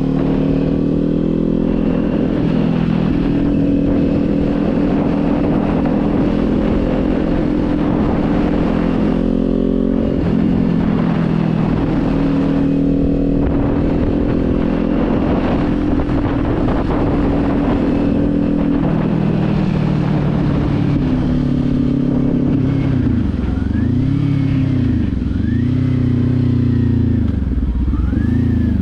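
Kawasaki Z400's parallel-twin engine running at cruising speed on the move, its pitch stepping twice as the revs change. Near the end the revs dip and climb back three times in quick succession. Wind rushes over the microphone throughout.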